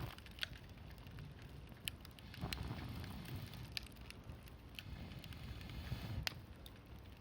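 Campfire crackling: scattered sharp pops, roughly one every second or so, over a low steady rumble.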